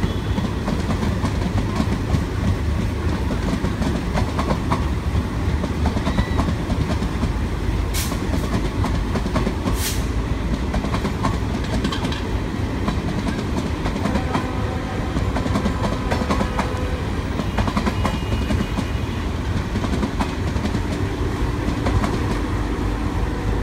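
Express train coaches rolling past at speed, a steady heavy rumble with wheels clattering over the rail joints, and two brief sharp clicks about eight and ten seconds in.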